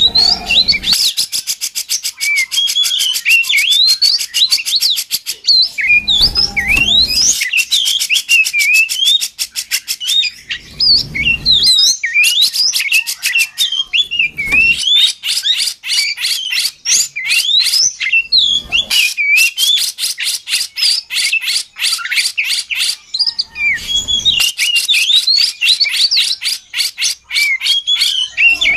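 Oriental magpie-robin (kacer) singing non-stop in lively full song: varied whistled phrases mixed with long runs of fast rattling chatter. Dull low thumps come every few seconds.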